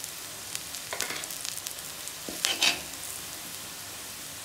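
Food sizzling in hot oil in a pan, with a utensil scraping and stirring briefly about a second in and more loudly at about two and a half seconds.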